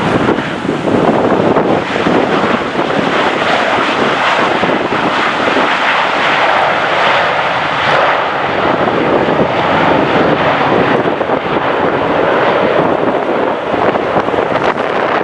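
Airliner engines running as an aircraft passes during takeoff or landing, under heavy wind buffeting on the microphone.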